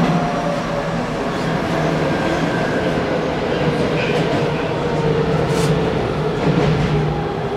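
Hanshin Railway local electric train running, heard from inside the car: a steady rumble of wheels on rail with the hum of the traction motors. A brief hiss about five and a half seconds in.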